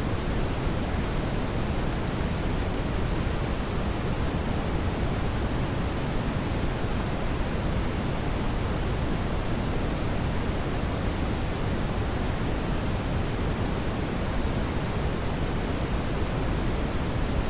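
Steady brown noise: a smooth, deep rushing hiss, heaviest in the bass, with no changes or events.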